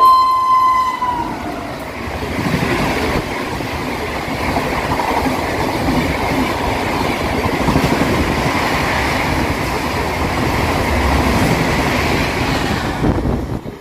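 Express passenger train passing at high speed: its horn ends about a second in with a slight drop in pitch, then the coaches run past with a loud, steady rush of wheel and rail noise that cuts off near the end.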